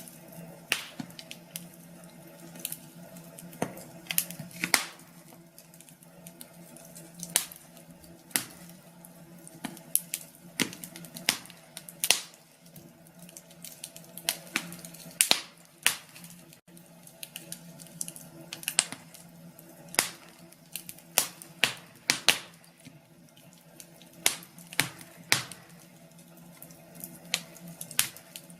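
Wood fire burning in a fireplace, crackling with irregular sharp pops and snaps over a faint steady hum.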